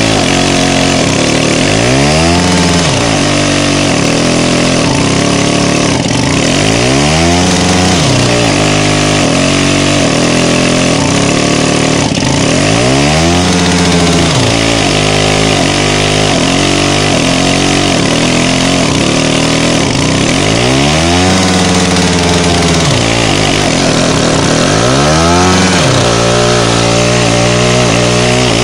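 DT-75 crawler tractor's small two-stroke petrol starting (pony) engine running hard during a cold start in about −20 °C frost. Its pitch rises and falls every five or six seconds, then settles into a steady note near the end.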